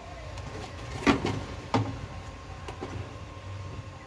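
A few sharp clicks and knocks, two louder ones a little over half a second apart, from the wiring harness connector and top panel of a Consul 10 kg washing machine being worked loose by hand.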